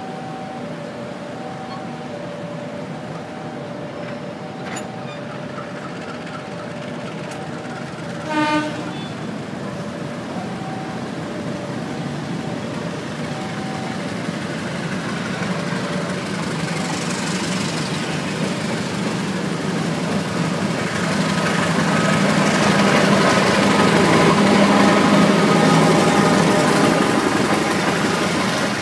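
Passenger train coaches rolling past on the track, the running noise growing louder through the second half as the cars pass close. A short train-horn toot sounds about eight seconds in, over a repeating two-note chime in the first half.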